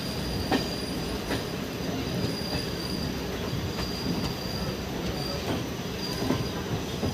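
Passenger train coach running along the track, heard from its open doorway: a steady rumble of wheels on rails with occasional sharp clacks and a thin high-pitched wheel squeal that comes and goes.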